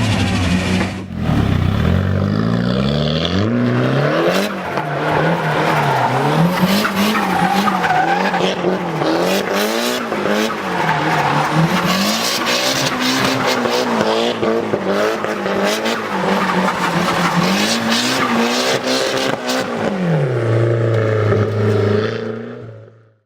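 Car engine revved up and down over and over, its pitch rising and falling every second or two, with tyres squealing; it fades out at the end.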